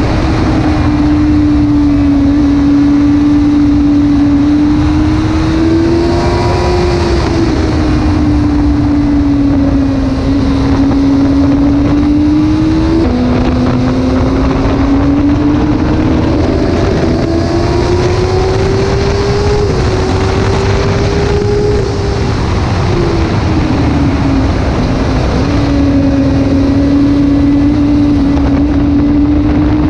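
Suzuki GSX-R 600's inline-four engine running at high revs on track, its pitch climbing under acceleration. The pitch drops suddenly once, a little before halfway, at a gear change, and falls again later as the bike slows, over a steady rush of wind.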